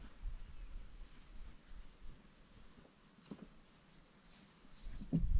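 Crickets chirping in a steady, evenly pulsing high trill, with a faint low rumble under it and a few soft knocks, the loudest near the end.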